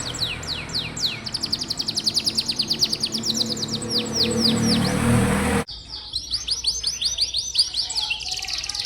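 Domestic canary singing fast trills of rapidly repeated sweeping notes, one tour running into the next. About halfway through the song breaks off suddenly and carries on over a quieter background, as at a splice between recordings.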